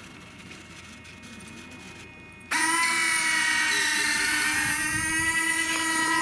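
Radio-controlled F-104 Starfighter model jet's electric motor spinning up suddenly to a loud, steady high whine about two and a half seconds in, holding at a near-constant pitch.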